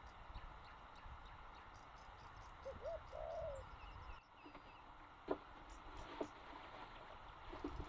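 Faint bird calls: a short rising-and-falling call about three seconds in and a few small high chirps after it, over a steady background hiss. A few short knocks come near the end.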